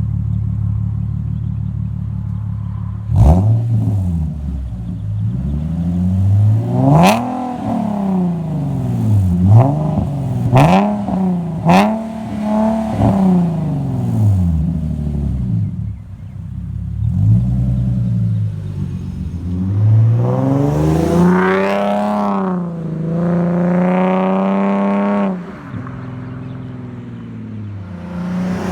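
Infiniti G37 sedan's 3.7-litre V6 heard through a custom true dual exhaust with X-pipe and resonators. It idles, then is revved in a string of quick blips, each rising and falling in pitch. A few longer, higher revs follow before it settles back to a steady low note near the end.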